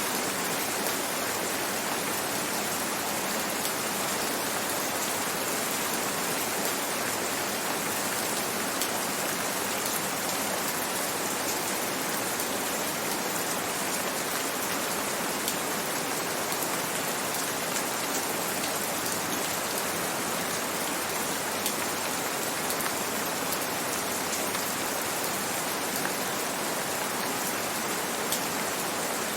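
Steady gentle rain: an even hiss of many falling drops, with faint scattered drop ticks and no change in strength.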